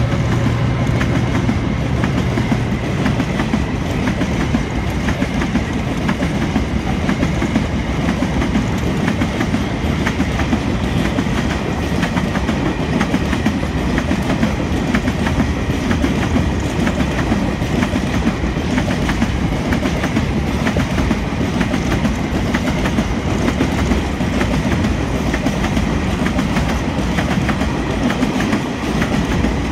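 Container freight wagons rolling past: a steady heavy rumble with a constant clatter of wheels clicking over the rail.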